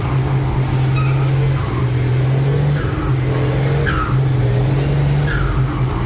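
Truck on the road: a steady low engine drone with road noise that dips briefly a few times.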